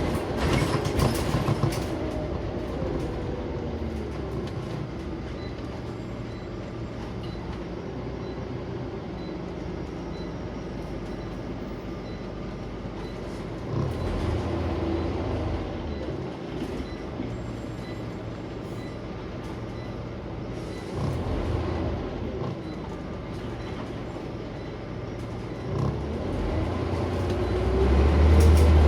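Inside a Scania OmniCity single-deck bus on the move: the diesel engine runs with road rumble and creaks and rattles from the body. The engine swells louder a few times, most of all near the end as the bus pulls harder.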